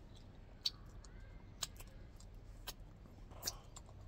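Quiet eating sounds of someone chewing a soft, sticky marshmallow treat: a few sharp mouth clicks and smacks, about one a second.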